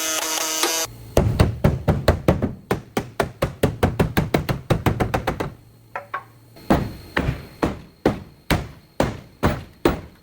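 A power tool whines briefly and stops in the first second. Then comes hammering: a fast run of blows, about six a second, then slower, spaced strikes about two a second.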